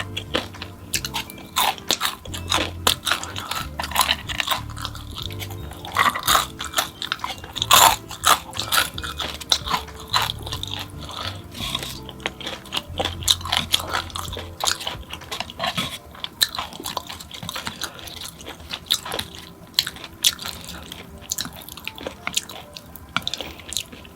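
Close-miked crunching and chewing of crispy fried snacks, an irregular run of sharp crunches and bites, with background music underneath.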